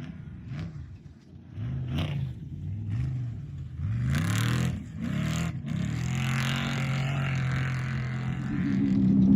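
Off-road race vehicle engine revving up and down several times, with a rush of noise about four seconds in. It then holds a steadier note that grows louder near the end.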